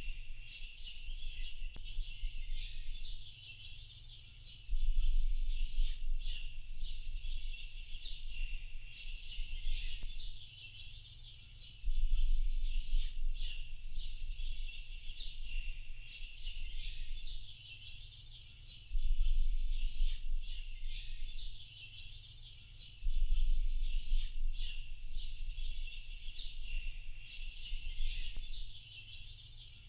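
A dense chorus of many small birds chirping and twittering without a break. Under it a deep low rumble swells in and out every few seconds.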